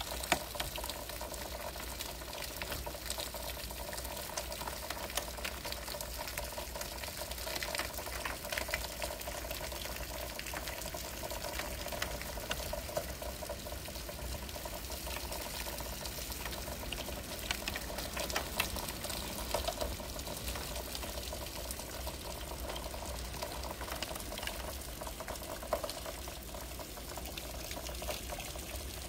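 Hurricane rain and wind: a steady rushing downpour with a low rumble, and many small ticks of raindrops pelting the window glass.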